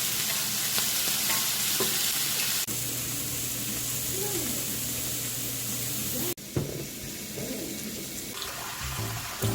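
Food sizzling in a frying pan, with a few small clicks of stirring. The sizzle breaks off abruptly twice and is much fainter after about six seconds.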